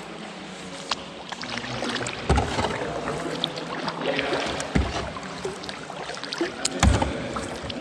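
Kayak paddling through water: splashing and dripping of paddle strokes, with three dull knocks against the boat, spaced about two seconds apart.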